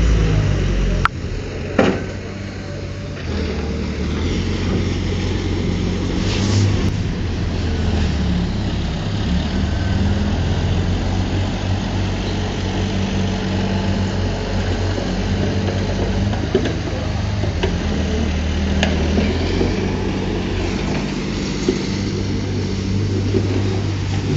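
Diesel engine of a heavy earthmoving machine running steadily, its pitch and load rising and falling as it works, with two sharp metallic clanks about a second and two seconds in.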